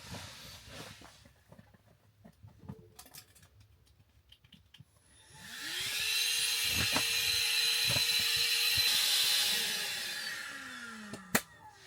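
Small electric air pump inflating an air mattress. Its motor spins up about five seconds in, runs steadily with a whine and a rush of air, then winds down with a falling pitch and stops near the end.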